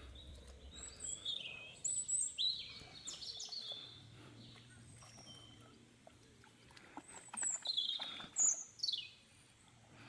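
Small birds chirping: two bursts of quick, high calls with short falling notes, the first about two seconds in and the second from about seven to nine seconds in.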